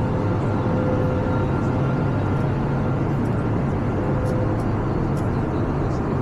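Airbus A321neo cabin noise in flight: a steady, even rush of airflow and engine noise, with a faint steady tone running through it.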